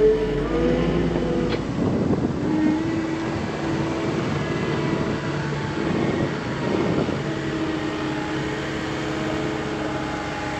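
John Deere 330G skid steer's diesel engine running, its pitch shifting up and down a few times as the machine works.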